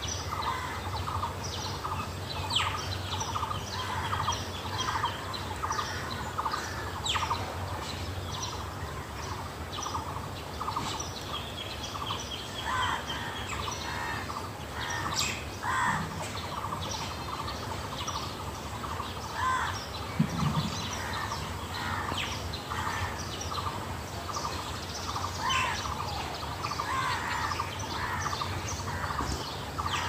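Several birds chirping and calling, many short repeated notes overlapping, over a low steady background hum.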